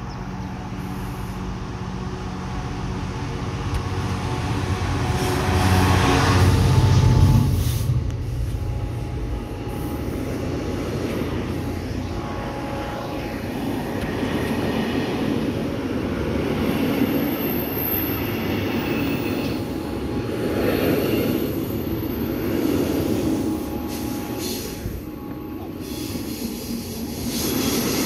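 Class 66 diesel-electric locomotive's two-stroke V12 engine running as it approaches and passes close by, loudest about seven seconds in. Then comes the steady rumble of loaded container wagons rolling past on the rails.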